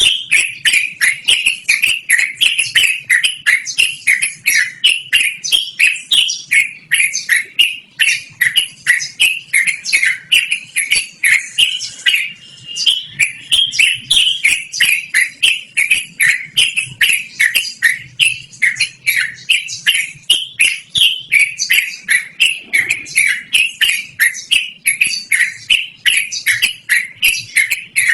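Yellow-vented bulbul (trucukan) singing without pause, a long rolling run of quick, bubbly falling notes at about three a second.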